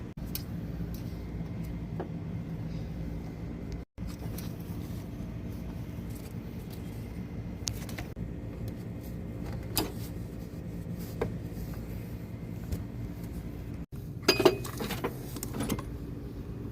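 Hand tools and small metal parts of an AC compressor clutch clinking now and then as the clutch is worked on, with a quick cluster of louder clinks near the end, over a steady low hum.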